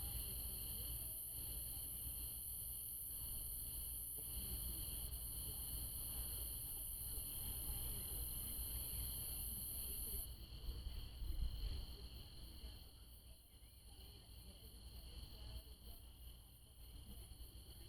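Night insect chorus of crickets: a steady very high-pitched trill that about ten seconds in gives way to a rapid even pulsing, over two lower steady trills.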